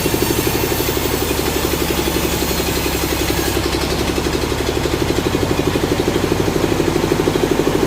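A sawmill engine running steadily with a fast, even throb.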